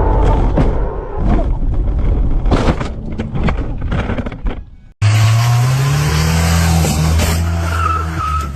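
Car road noise with a series of sharp clattering hits that fade out about five seconds in. After a cut, a car engine is heard accelerating, its pitch rising.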